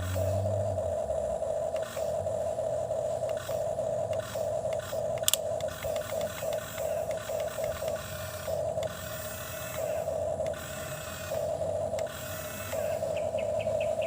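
Small electric motor and plastic gears of a toy excavator whirring with a steady hum that cuts in and out repeatedly as the arm is worked, with light clicks and rattles.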